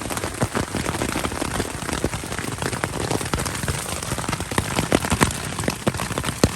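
Heavy rain beating on a tent's fly: many separate drops striking the fabric over a steady hiss.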